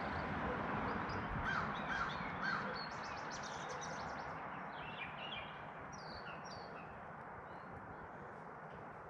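Birds calling: three harsh caws in quick succession about a second and a half in, among a run of short high chirps and twitters that die away after about six seconds, over a steady background hiss.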